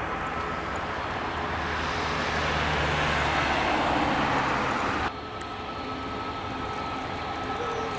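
Jet engine noise from a Boeing 737 MAX 8-200's CFM LEAP-1B engines on takeoff, building to a peak about four seconds in. It cuts off abruptly about five seconds in, leaving a quieter steady rumble with a faint high whine.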